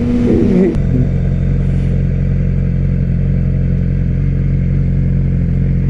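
Yamaha R6 sport bike's inline-four engine running at steady revs while riding, its note settling into an even drone about a second in, over a steady rush of wind and road noise.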